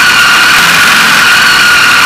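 KTM off-road motorcycle engine running steadily under way, recorded loud and close with a strong rushing noise; its whine sags slightly in pitch over the two seconds.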